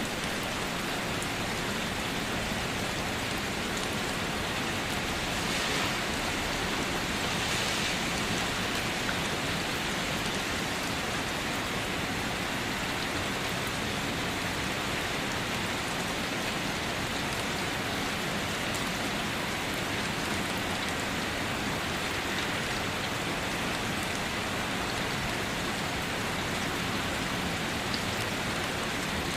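Steady rain pattering on a car's roof and body, an even dense hiss of drops that swells slightly a few seconds in.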